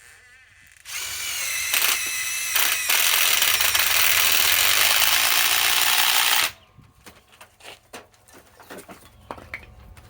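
Ryobi PSBIW25 compact cordless impact wrench running under load for about five and a half seconds. It starts about a second in, gets louder near the three-second mark and cuts off abruptly.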